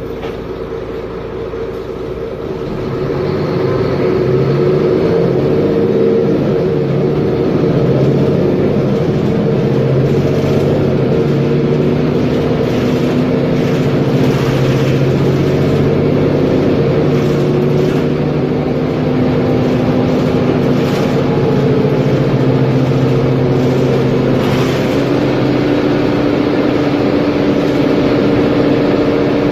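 Mercedes-Benz Conecto G articulated bus's OM457LA inline-six diesel engine running under way. It gets louder about three seconds in as it pulls, then holds a steady note, which steps up in pitch near the end.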